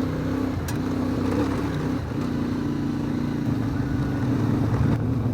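CFMoto Ibex 450 MT's parallel-twin engine running at a steady throttle while riding, its pitch holding mostly level with a few small dips and shifts.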